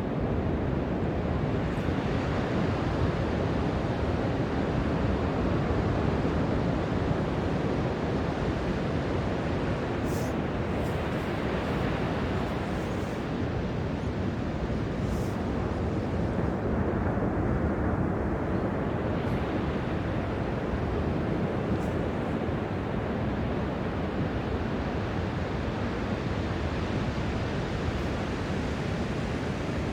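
Ocean surf washing steadily onto a beach, its level swelling and easing slightly as the waves come in.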